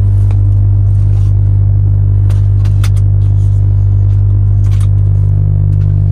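A steady, loud low hum of an idling engine, with a few faint clicks on top.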